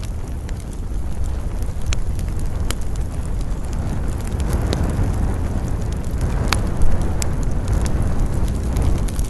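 Campfire crackling: burning wood gives off scattered sharp pops and snaps over a steady low rumble of wind. There is one louder pop about seven seconds in.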